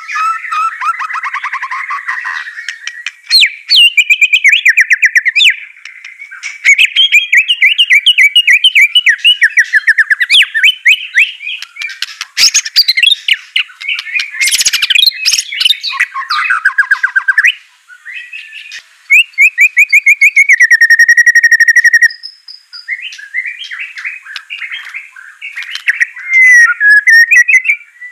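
White-rumped shama (murai batu) singing a loud, fast, varied song of rapid trills and rattling runs of repeated notes, broken by a few short pauses.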